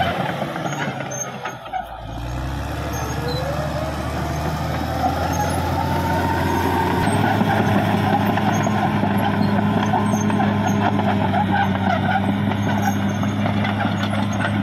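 Caterpillar D6R XL bulldozer's diesel engine working. It dips briefly near two seconds in, then a whine rises in pitch over the next few seconds and the engine settles into a steady, slightly louder run.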